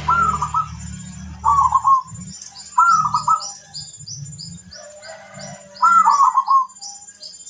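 Zebra dove (perkutut) cooing: four short, trilled coo phrases a second or more apart. Behind them runs a faint, steady series of high chirps, about three a second.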